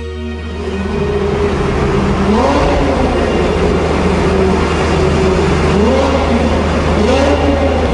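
Porsche Boxster engine through an aftermarket Armytrix exhaust, revved several times, the pitch rising and falling with each blip of the throttle.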